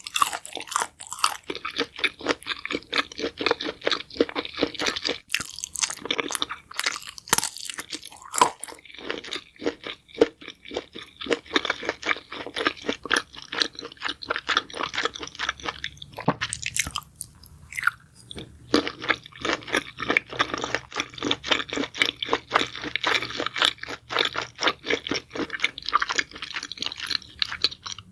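Close-up chewing of crunchy food: a dense run of quick crunches, pausing briefly about two-thirds of the way through before carrying on.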